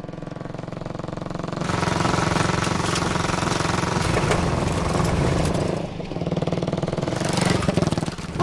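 Motorcycle engine running steadily, growing louder about two seconds in, dipping briefly near six seconds, then picking up again.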